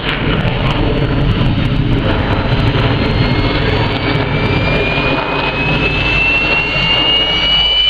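Jet aircraft engines running, a loud steady rumble. From about three seconds in, a whine rises slowly in pitch above it.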